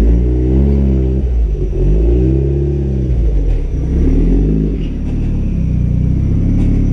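Turbocharged Nissan CA18DET four-cylinder engine revved up and back down three times, then running steadily.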